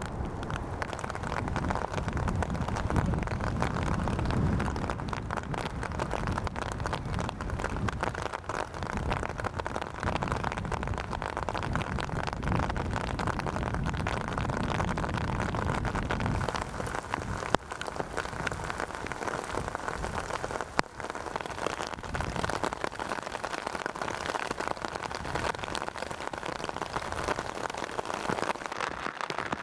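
Steady rain falling, with a low rumble in the first half that eases later and two sharp ticks past the middle.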